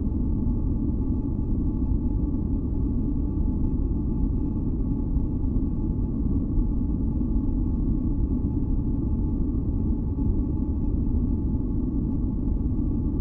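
Steady, deep masking noise in the manner of brown noise, most of its weight low down, with faint held tones above it. It does not change.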